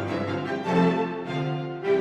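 Bowed string music: violin over lower strings, playing held notes that change every half second or so.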